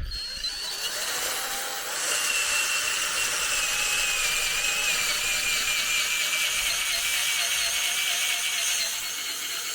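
Cordless drill driving a screw-in ground anchor into the soil. The motor gives a steady whine that is softer for the first two seconds, then grows louder and sags slightly in pitch as it runs on.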